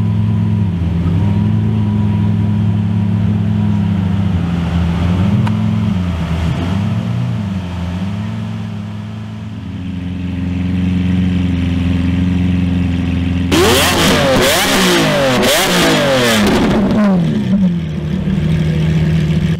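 Lamborghini Aventador V12 idling steadily. In the last third, an Aventador is revved hard in a quick series of rising and falling blips for about four seconds, then drops back to idle.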